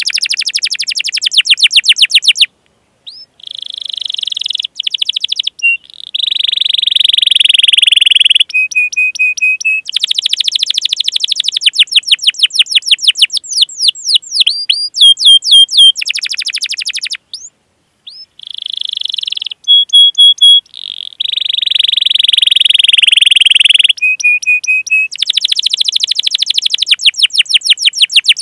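Domestic canary singing a long, high-pitched song of fast repeated 'cuit cuit' chirps alternating with rolling, buzzy trills ('ngerol'). It breaks off briefly twice, about two and a half seconds in and again past the middle.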